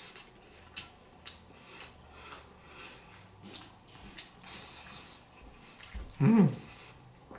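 Close-miked chewing of eggs: soft wet mouth noises and small clicks. About six seconds in there is a short hummed "mm".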